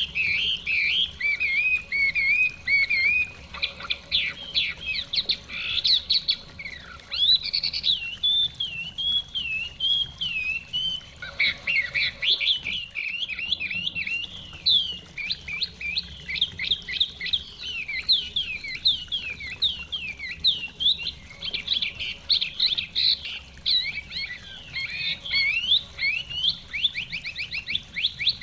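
Chinese hwamei singing a long, varied song of rapid trills and gliding whistles that runs almost without pause, over a faint steady rush of a running stream.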